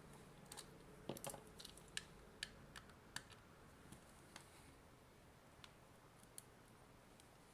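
Small sharp clicks and ticks of a tool picking and prying at a sealed hard plastic AC adapter casing, a quick flurry in the first few seconds, then only scattered ones.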